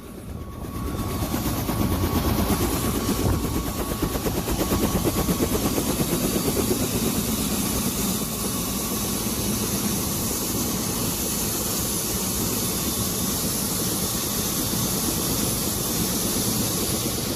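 Helicopter running: a steady, loud engine and rotor drone with a fast, even pulsing of the rotor blades. It swells over the first couple of seconds and then holds level.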